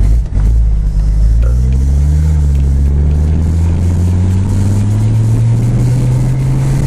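1982 Mercedes 300TD's straight-piped OM617 five-cylinder turbodiesel under acceleration, with the muffler removed. The engine note climbs, dips once about two and a half seconds in, then climbs slowly again.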